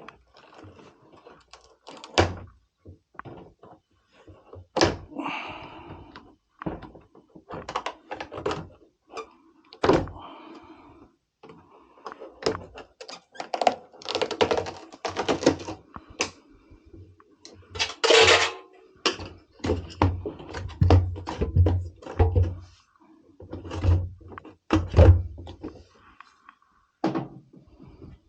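Hand disassembly of a Miele washing machine: irregular knocks, clicks and thunks of metal panels, parts and tools being handled, with a few short scraping sounds.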